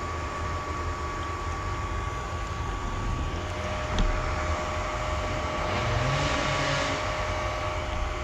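Enduro motorcycle engine running at low revs, with a few short rev rises, and a single click about four seconds in.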